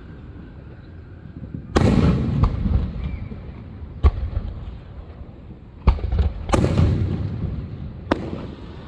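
Fireworks exploding: a big bang about two seconds in, sharp single cracks near four and six seconds, another big burst soon after, and one more near the end, with rumbling echo between them.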